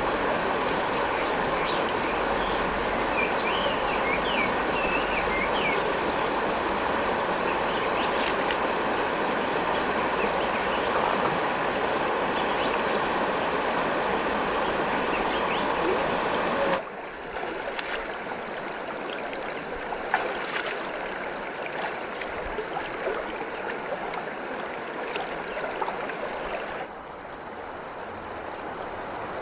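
Stream water rushing steadily, with a few brief high chirps over it. The flow drops abruptly to a quieter level about two-thirds of the way through, and again near the end, as the recording changes.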